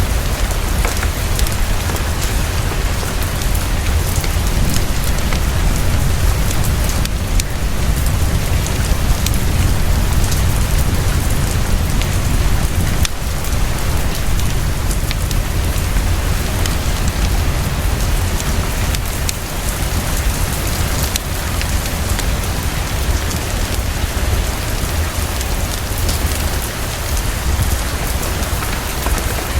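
Heavy, steady rainfall with a deep low rumble underneath, mixed with scattered small crackles of a wood fire.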